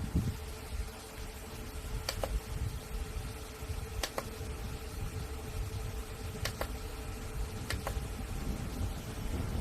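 Small portable USB desk fan running, with a steady motor hum and the low rumble of its airflow, plus a few sharp clicks.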